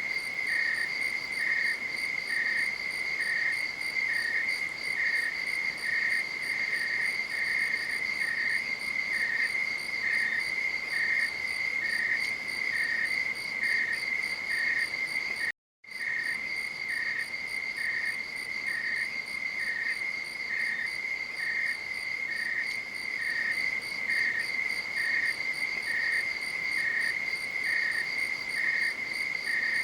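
Crickets at night: a steady high trill with a second chirp pulsing just below it a little more than once a second. The sound cuts out completely for a split second about halfway through, then carries on unchanged.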